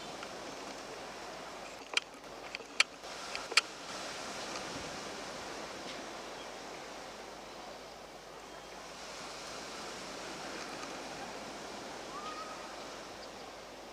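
Steady harbour ambience, a wash of sea and wind noise, broken by three sharp knocks about two to four seconds in.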